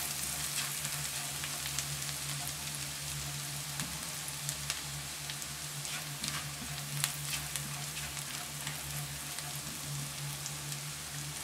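Crushed garlic lightly frying in oil in a wok: a steady sizzle with scattered small crackling pops, stirred with a spatula.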